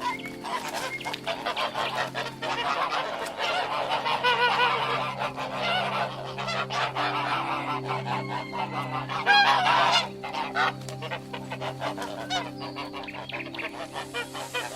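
Geese honking, many calls overlapping, loudest about nine seconds in.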